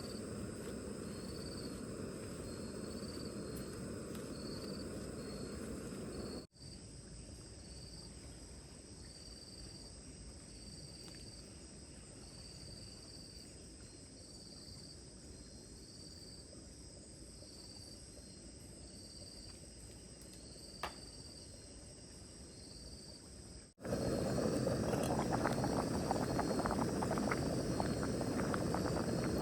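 Insects chirping in short, evenly repeated high pulses over a steady outdoor hiss. A single click comes a little past two-thirds of the way in, and in the last few seconds a louder crackling noise joins.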